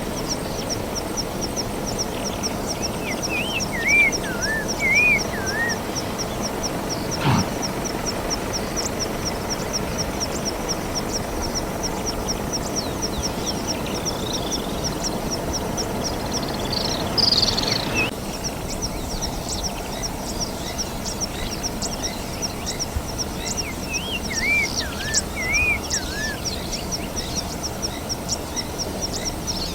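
Bush ambience: a high chirp repeated several times a second without a break, with warbling bird calls twice, once a few seconds in and again near the end, over a steady low rumble.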